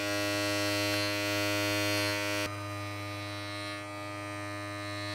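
Electric beard trimmer running with a steady buzz as it cuts along the side of a beard. About two and a half seconds in, the buzz turns quieter and duller.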